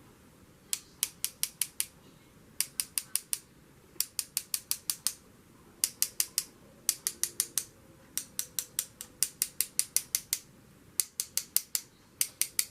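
Paintbrush bristles flicked again and again to splatter white gesso onto cards: quick runs of sharp clicks, about six a second, in bursts of five to eight with short pauses between.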